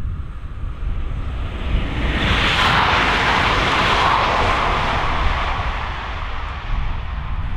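Régiolis regional multiple-unit train passing close at speed: the rush of wheels on rail swells about two seconds in, peaks over the next two seconds and fades as the train runs away. A steady low rumble sits under it throughout.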